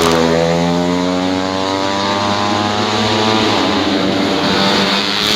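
Four-stroke 125 cc underbone race motorcycle engines running hard at high revs, their pitch dipping and then climbing again as the bikes pass and accelerate.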